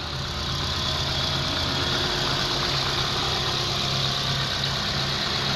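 Holden Barina's 1.6-litre F16D3 four-cylinder petrol engine idling steadily.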